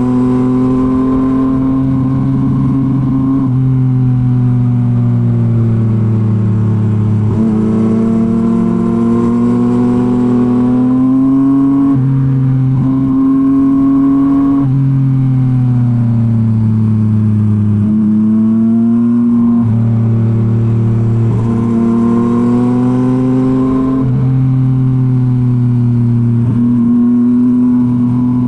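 Yamaha MT-09's three-cylinder engine running through a Revoc SP full-system exhaust while riding, the note climbing and falling with the throttle and jumping in pitch about every three to five seconds as gears are changed.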